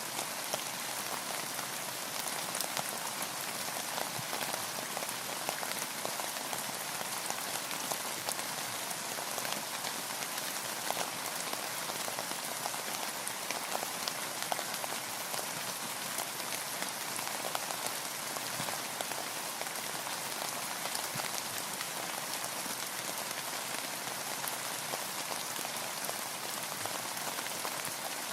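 Steady rain falling on a boat, with a continuous hiss and many separate drops ticking on nearby surfaces.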